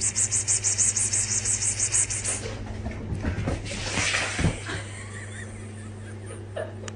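A person calling a cat with a rapid, repeated 'pspspsps' hiss for about two and a half seconds, over a steady low hum.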